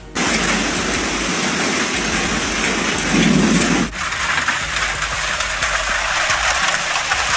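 Heavy storm downpour pelting down hard in a dense, steady hiss, changing abruptly about four seconds in.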